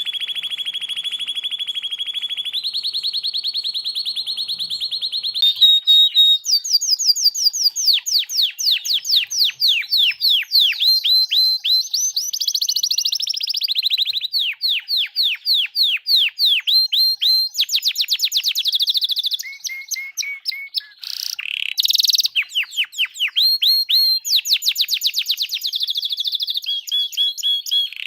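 Songbird song from a masteran recording of rapid, piercing 'tembakan' phrases. It opens with a fast trill held on one high pitch, which steps up slightly partway through, then breaks into a long run of quick downward-sweeping notes, several a second, changing phrase every few seconds.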